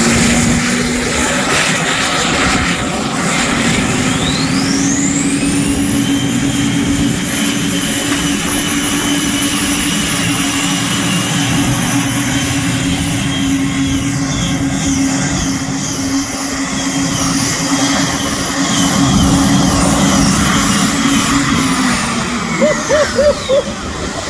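Tractor-pulling machine powered by four helicopter turbine engines making a pull. A high turbine whine climbs steeply a few seconds in, holds with a wavering pitch over a steady low drone, and falls away near the end as the run finishes.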